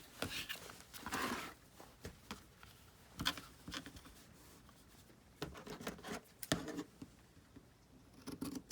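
Fabric being handled and cut with scissors: scattered short snips and rustles with a few sharp clicks.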